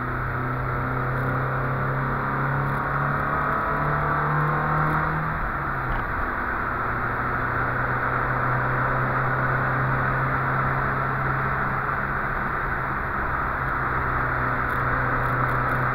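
Volvo 144S four-cylinder engine heard from inside the cabin while driving on track, over wind and road noise. Its note rises for about five seconds, drops a little, then holds steady.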